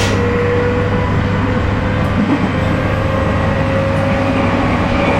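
A JR 719 series 5000-subseries electric train running at speed, heard from inside the car. The steady rumble of wheels on rail carries the whine of its MT61 traction motors and gears (gear ratio 6.07), which climbs slowly in pitch.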